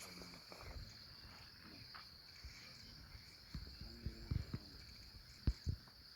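A steady, high-pitched insect chorus of crickets trilling without a break, with a few low knocks and bumps in the second half.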